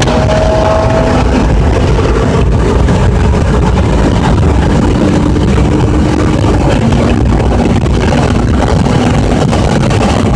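A car's engine accelerating hard on a racetrack straight, heard from inside the cabin under heavy low road and wind rumble. The engine note climbs slowly and drops once about two-thirds of the way through.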